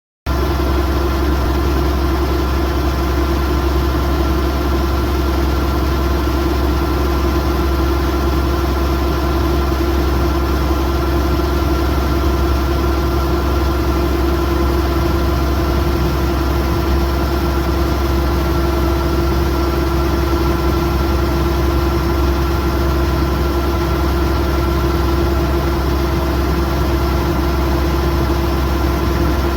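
Kubota DC108X combine harvester's diesel engine and machinery running steadily at working speed: a constant low hum with a few unchanging whining tones above it.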